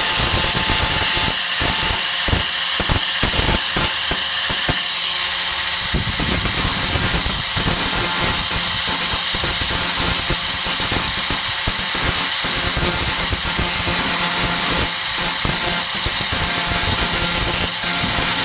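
A Warrior 4-1/2 in. angle grinder with a Type 27 grinding disc runs steadily with a high whine, grinding down flux-core welds on a steel tailgate patch.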